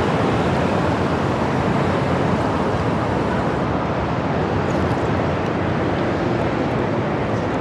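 Steady rushing noise of wind on the microphone and surrounding road traffic, heard from a bicycle riding in city traffic.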